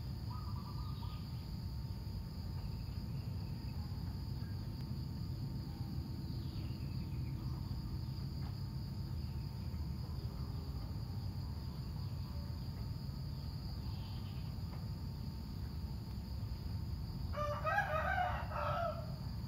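Steady high insect drone over a low rumble, with a few faint chirps, and a rooster crowing loudly once near the end.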